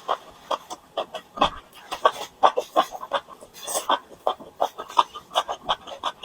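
Close-miked chewing and eating: a rapid, irregular run of wet mouth clicks and smacks, several a second.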